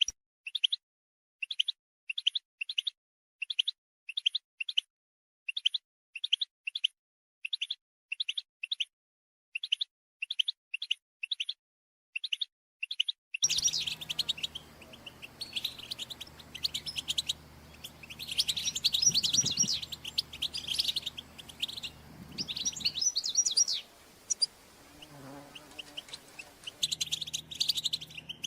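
European goldfinches calling: for the first half, short chirping call notes repeated in quick groups of two to four with clean gaps between; about halfway through it switches to denser, overlapping twittering from several goldfinches over a low steady hum.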